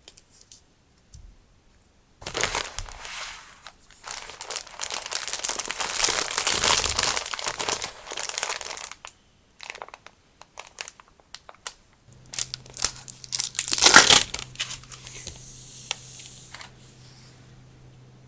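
Packaging crinkling and rustling as it is handled and opened, in several bursts with small clicks, loudest about fourteen seconds in. A faint low hum starts about twelve seconds in.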